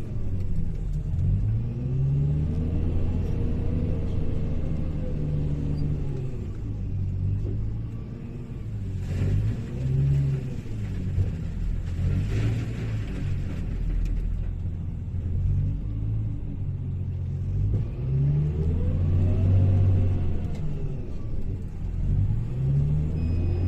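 Hyundai HL780-7A wheel loader's diesel engine running under working load, its pitch rising and falling again and again as it revs up and eases off through the loading cycle. Twice in the middle a short hissing, scraping noise rises over the engine.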